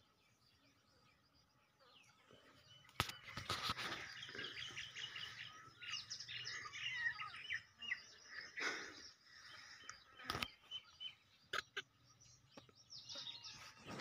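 Small birds chirping in many quick short calls, with a couple of sharp knocks, one about three seconds in and another around ten seconds.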